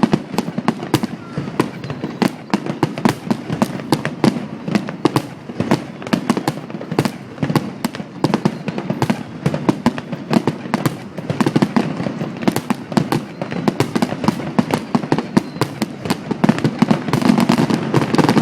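Fireworks display: a dense, continuous stream of crackling bursts and bangs, many each second.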